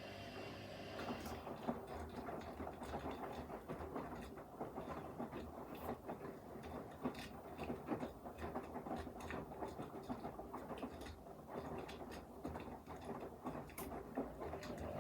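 Front-loading washing machine tumbling its load mid-wash. About a second in, a steady hum gives way to irregular sloshing and a rapid, uneven clatter of small knocks as the drum turns.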